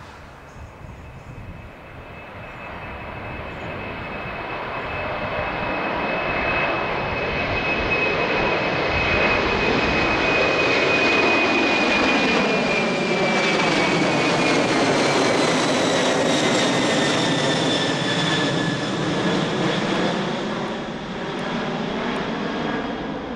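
Four-engined Boeing 747-400 freighter taking off and passing by: a steady jet roar that builds over several seconds, with a high whine that falls in pitch as it goes past, easing off near the end.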